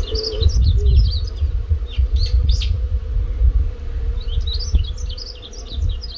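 Small birds chirping and twittering in quick bursts, with pauses between, over a steady low rumble and a faint steady hum.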